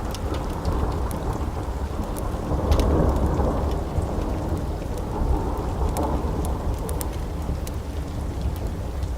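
Steady rain with a low thunder rumble that swells about three seconds in. Scattered sharp pops and crackles of a wood fire sound over it.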